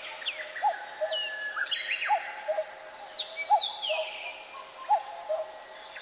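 Wild birds calling: a low two-note call, the second note lower than the first, repeats about every one and a half seconds, with higher whistles and chirps from other birds over it.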